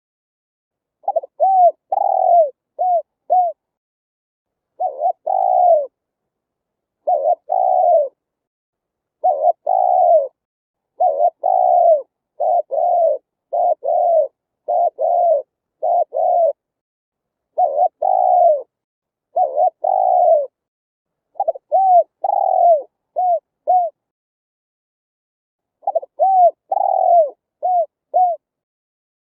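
Spotted dove cooing in repeated phrases. Each phrase is a run of short arched coos, with brief silent pauses between phrases and a longer pause about three-quarters of the way through.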